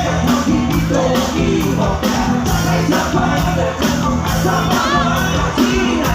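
A live Thai ramwong dance band playing, with a steady drum and cymbal beat about twice a second under a singing voice.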